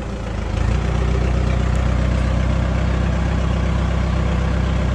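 Heavy machine's diesel engine running steadily. It gets louder about half a second in, then holds steady.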